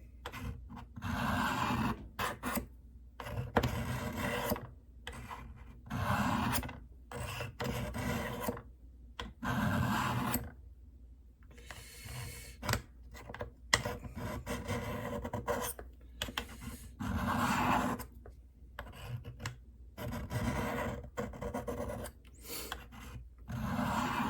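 Knife blade drawn again and again down the coarse ceramic rods of a Spyderco Tri-Angle Sharpmaker: repeated scraping strokes, each about a second long, with short knocks between them.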